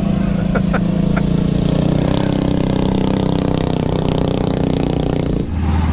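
Coleman mini bike's small single-cylinder engine running steadily under way, then dropping suddenly to a lower, steady note near the end.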